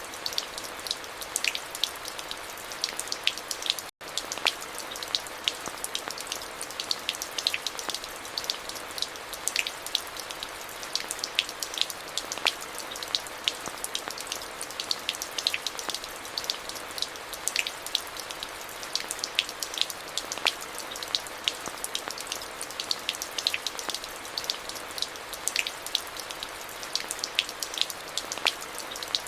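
Steady rain, a hiss dense with many individual drops ticking close by. The sound cuts out for a split second about four seconds in.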